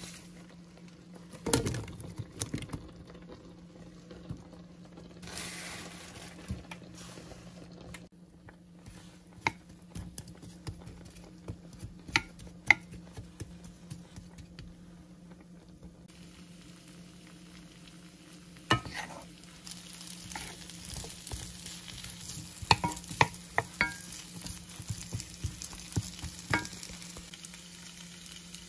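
Food frying and sizzling in a cast-iron skillet as it is stirred, with scattered sharp knocks and scrapes of a wooden spatula against the pan over a steady low hum.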